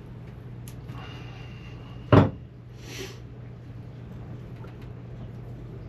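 A single loud, sharp knock about two seconds in, with a little scraping before it and a short hiss after it, over a steady low hum.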